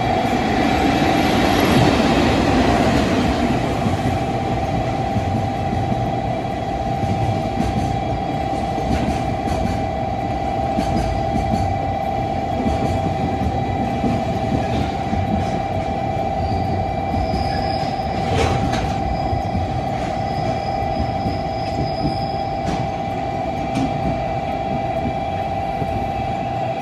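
Train running at a station platform, a steady high tone held throughout over a rumble, louder in the first few seconds.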